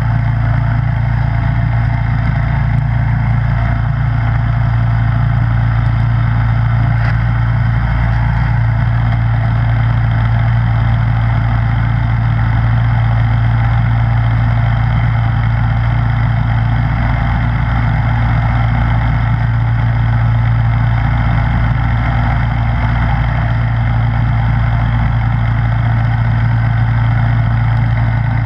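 Snowblower engine running steadily at a constant speed, with no change in pitch or level.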